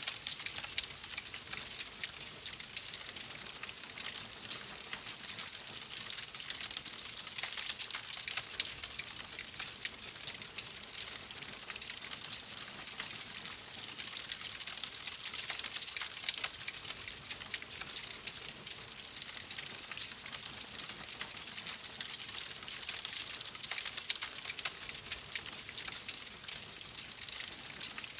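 Wood fire crackling steadily: a dense, unbroken run of small pops and snaps over a soft hiss.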